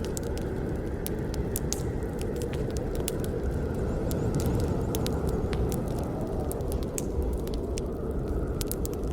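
Campfire burning: a steady low rush of flames with frequent, irregular sharp crackles and pops.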